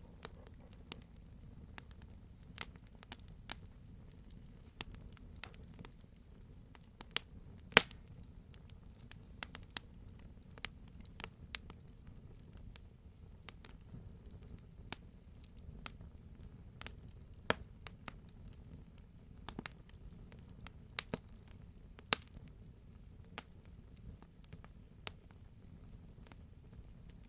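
Wood campfire crackling: irregular sharp pops and snaps over a low steady rumble of burning, with the loudest pops about eight seconds in and about twenty-two seconds in.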